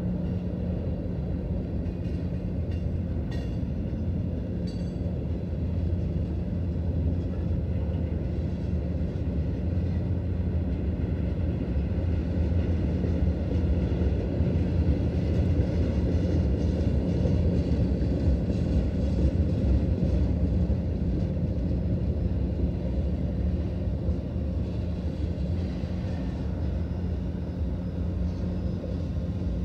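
Freight train cars rolling past: a continuous low rumble of wheels on rail with a steady hum, swelling slightly in the middle and easing toward the end.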